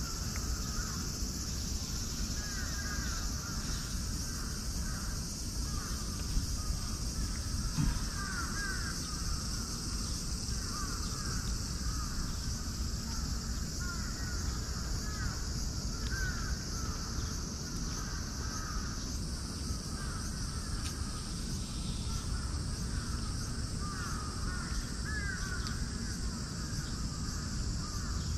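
Birds calling over and over, short calls coming about one or two a second, over a steady high-pitched hiss.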